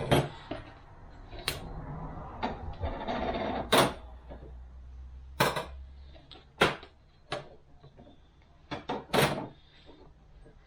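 Transmission clutch discs and steel plates being handled and set down on a workbench: a string of separate sharp clicks and knocks, about one to two seconds apart, with a brief rustle about three seconds in.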